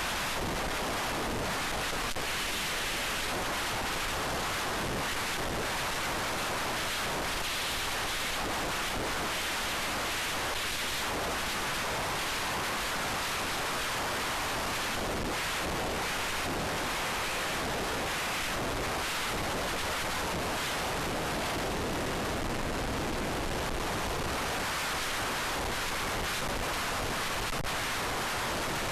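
Steady rushing wind noise over the onboard camera's microphone of an FPV racing wing in flight, an even hiss with no motor whine standing out.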